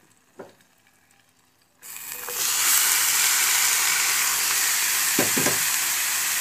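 Grated carrots sizzling loudly in hot melted ghee in a frying pan, a steady hiss that starts suddenly about two seconds in as the carrots go into the fat. A couple of short soft knocks sound near the end.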